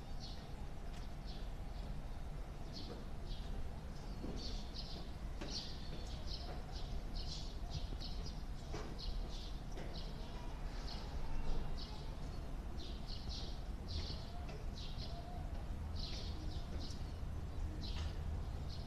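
Small birds chirping in short, irregular bursts over a low steady hum.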